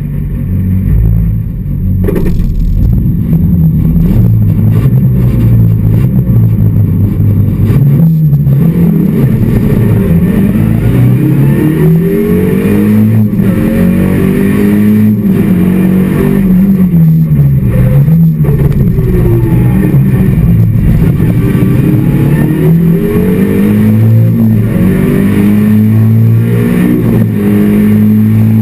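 Skoda Felicia rally car's engine heard from inside the cabin, pulling away hard at the start of the stage and then revving up and dropping again and again as it is driven through the gears. A few sharp knocks come through the cabin along the way.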